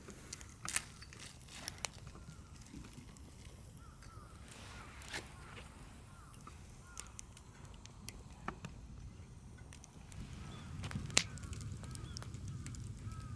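Faint outdoor ambience with scattered light clicks and knocks, and short repeated calls from distant birds, a run of them a few seconds in and more near the end. A low rumble comes in for the last few seconds.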